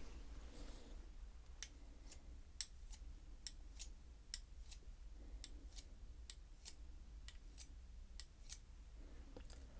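A series of faint, sharp clicks, about two a second, over a low steady hum.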